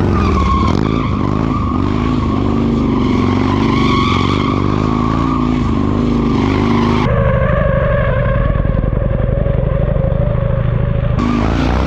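Motorcycle engine held at high revs while drifting in circles, its pitch wavering with the throttle, over the hiss of a skidding rear tyre. About seven seconds in, the sound turns abruptly duller.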